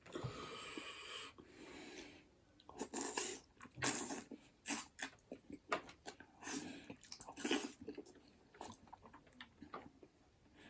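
A long wet slurp, then close-up wet chewing with many lip-smacks and clicks: a person eating buffalo bone marrow and noodles.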